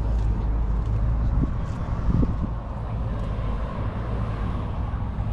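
A motor vehicle engine running at idle, a steady low rumble that drops away about a second and a half in, over outdoor background noise.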